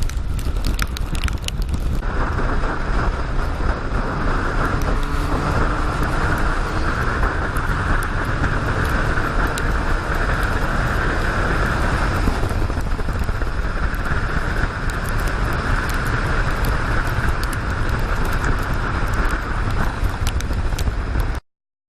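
Motorcycle being ridden: steady wind rush over the microphone with engine and road rumble beneath, cutting off suddenly near the end.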